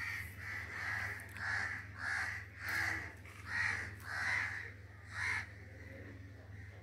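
A bird calling over and over, about eight short calls in quick succession, one roughly every two-thirds of a second, then falling silent near the end.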